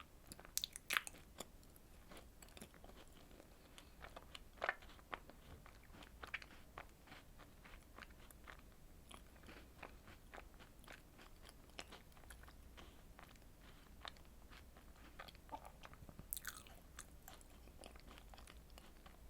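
Close-miked eating of strawberry desserts: bites and moist chewing, heard as a run of small wet clicks and smacks, with the sharpest bites about a second in, near five seconds and near the end.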